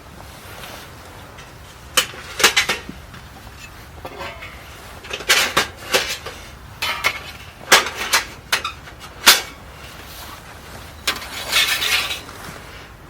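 Cookware and utensils clinking and clattering as they are handled, in a dozen or so sharp knocks, some single and some in quick clusters, at uneven intervals.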